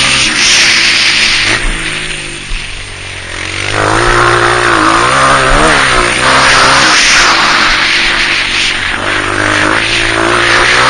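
Honda CRF230F single-cylinder four-stroke dirt bike engine being ridden, its pitch rising and falling with the throttle. It eases off and goes quieter about two seconds in, then revs back up, with a steady hiss over it.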